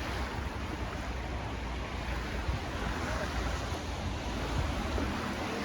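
Steady rushing noise of storm-force wind and rough sea, with the wind buffeting the microphone in a deep rumble.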